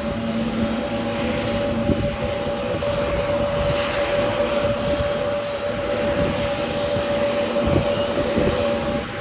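Jet engines of an Airbus A321neo airliner on its landing run, a steady whine over a rushing roar.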